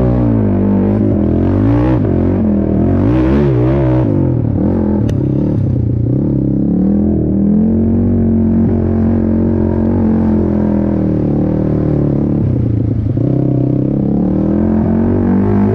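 Racing ATV (quad) engine under hard throttle, revving up and down as it works through the track. The revs hold steady for a few seconds mid-way, then drop briefly near the end before picking up again.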